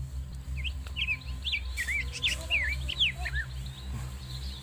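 A bird singing a quick run of about a dozen short, high chirping notes, each sweeping up or down in pitch, over a steady low rumble on the microphone.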